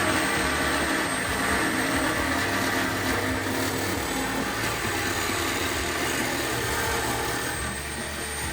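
A machine or power tool running steadily, with an even whirring noise and a thin high whine.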